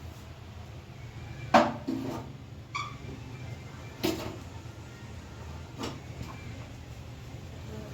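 A handful of short, separate knocks and clatters of objects being handled and set down, the loudest about a second and a half in, over a steady low hum.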